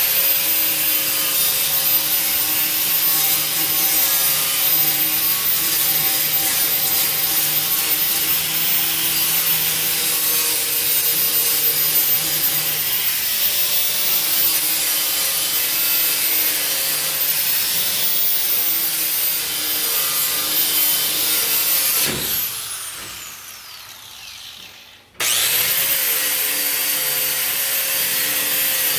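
An old, worn straight-bristle wire wheel spinning on a power tool and scrubbing paint and rust off metal, a steady harsh scrubbing over a motor whine. About 22 s in it is switched off and winds down with a falling whine. A few seconds later it starts again abruptly and runs steadily.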